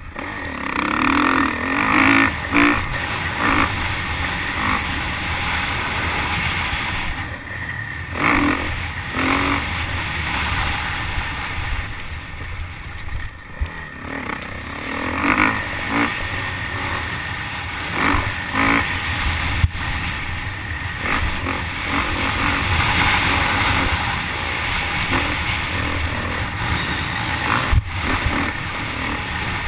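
Motocross bike engine revving hard and backing off again and again around the track, heard through a helmet-mounted camera with wind rushing over the microphone.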